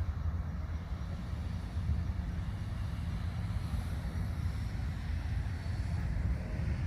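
Steady low rumbling noise, deep and even, with no distinct events.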